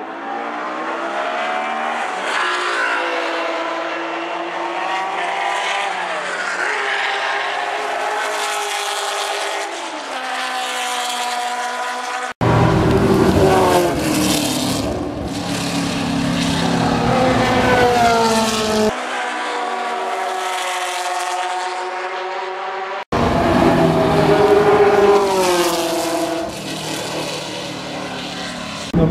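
Ford GT40 racing cars' V8 engines running hard on track, revs rising and falling through gear changes. The sound changes abruptly twice, about 12 and 23 seconds in, each time turning louder and deeper.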